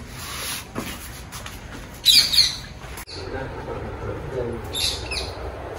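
A bird squawking: a short run of harsh, high calls about two seconds in. Another brief high sound comes near the end.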